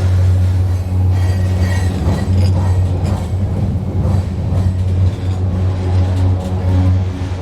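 Steel railway bridge droning as a train passes overhead, heard from underneath: a deep, steady hum with a fainter higher tone above it, set up by the constant vibration of the train on the span. Rumble and irregular clicks from the train run under the hum.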